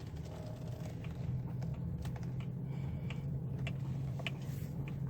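Infiniti G35's engine running steadily at low speed, heard from inside the cabin as the car creeps in to park, with scattered light clicks and rattles.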